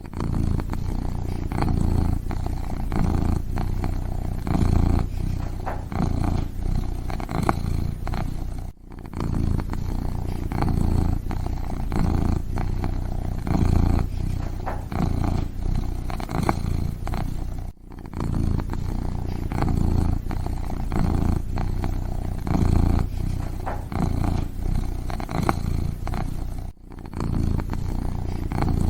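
Kitten purring steadily, a low rumble that swells and eases about once a second, broken by a short gap about every nine seconds.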